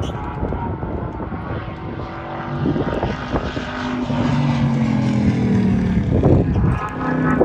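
Race car engine under hard acceleration passing by on a circuit. It grows louder to a peak about six seconds in, its pitch dropping slightly as it goes past.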